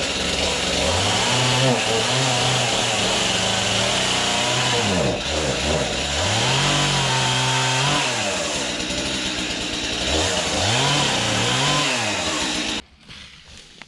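Two-stroke chainsaw running, revving up and easing back down about three times, then shutting off abruptly near the end. It is being used to clear a tree.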